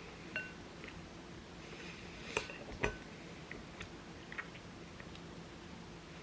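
Eating utensils clinking against dishes: a few light clinks with a short ring, and two sharper knocks about halfway through.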